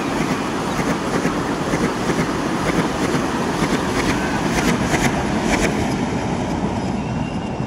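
Vande Bharat Express electric multiple-unit train passing close by: steady rumble of wheels on the rails, with a run of sharp clacks about four to five seconds in, easing off slightly near the end as the last car goes by.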